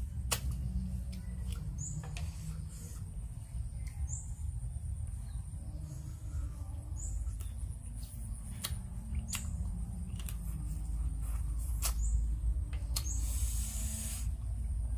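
Close-miked mouth sounds of eating Khmer crab salad: sucking food off the fingers, wet lip smacks and sharp clicks, with short high squeaks. A brief burst of rustling comes about 13 seconds in, and a steady low rumble runs underneath.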